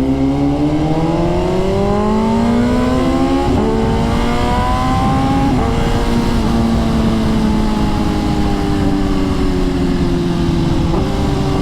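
BMW S1000RR inline-four with a full titanium SC Project exhaust accelerating hard. The revs climb and drop back at upshifts about three and a half and five and a half seconds in, then fall slowly as the rider rolls off the throttle, with wind rushing past.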